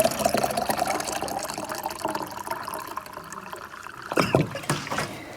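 Water being poured into a mug, the filling tone rising slightly in pitch as the mug fills, then tapering off about three seconds in. A few light knocks follow near the end.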